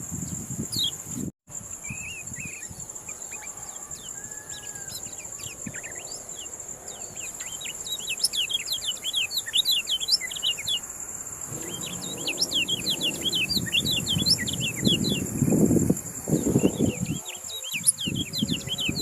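Kecial kuning (yellow white-eye) singing: a fast, high chattering song of many quick chirps that grows busier in the second half, over a steady high insect buzz. A low rumble rises under it near the end, and the sound cuts out briefly about a second and a half in.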